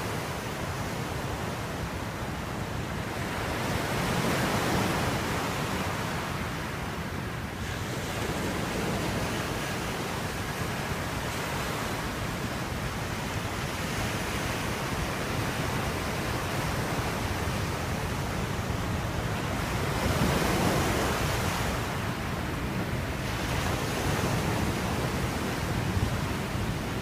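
Coastal wind and surf: a steady rushing noise with no engine in it, swelling and easing every several seconds.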